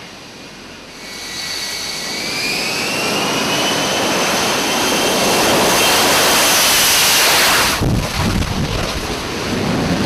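Jet fighter engine roaring loudly with a high whine that rises slightly in pitch about two seconds in and keeps building. Near the end the whine cuts off suddenly, leaving a lower rumble.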